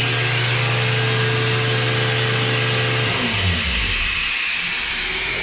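Skid steer engine running steadily, then throttling down about three seconds in, its pitch sliding lower, over a steady hiss.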